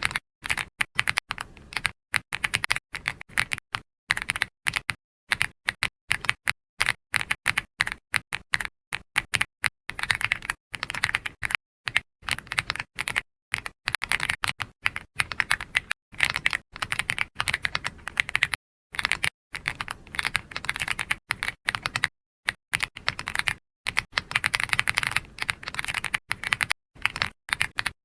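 Computer keyboard being typed on in quick runs of keystroke clicks, broken by short pauses between bursts.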